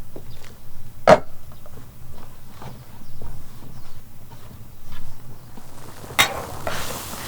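Light kitchen knocks and clicks, with one sharp knock about a second in; about six seconds in, a sudden loud sizzle as food goes into hot oil in a pan.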